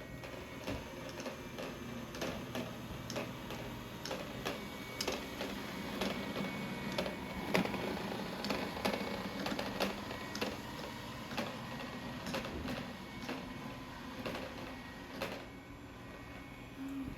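3i G10+ robot vacuum running, a steady motor hum with many irregular sharp clicks and ticks, busiest in the middle.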